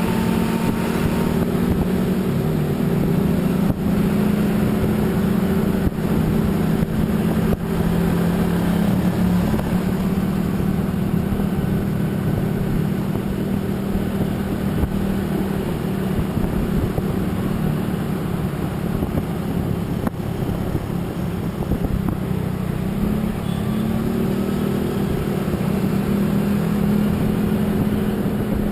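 A motor vehicle driving at a steady speed on a highway: a steady engine hum over road and wind noise, with the engine pitch shifting slightly a couple of times.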